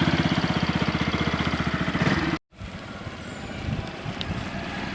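Motorcycle engine running close by with an even, pulsing beat. About two and a half seconds in it cuts sharply to a quieter, rougher engine sound.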